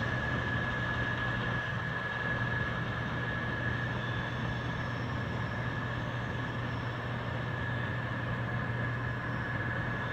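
CSX mixed freight train running by, a steady rumble with a constant high-pitched whine over it.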